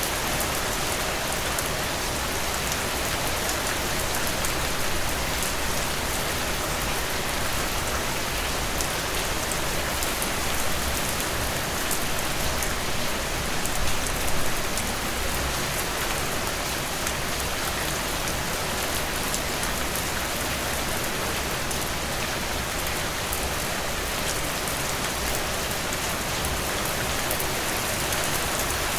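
Heavy rain: a steady, dense downpour, an even hiss of countless drops with fine individual drop hits throughout, swelling slightly about fourteen seconds in.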